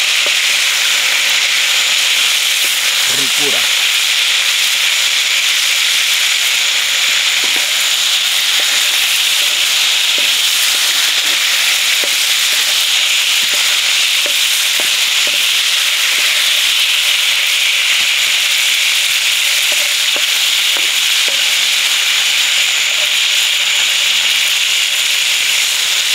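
Small chacalín shrimp frying in hot oil in a pan: a steady, loud sizzle.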